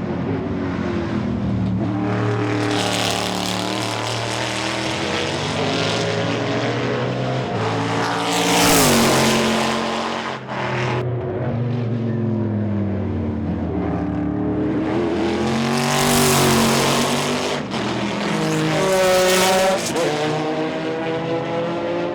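Chevrolet Corvette C5-R's 7-litre V8 racing engine at speed, its pitch rising and falling through revs and gear changes. Loud pass-bys about 9, 16 and 19 seconds in.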